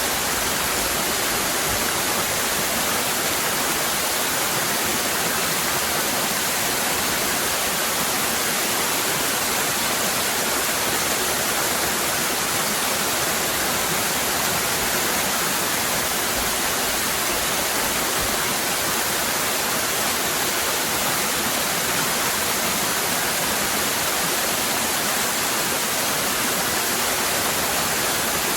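Waterfall cascading: a steady, even rush of falling water with no breaks.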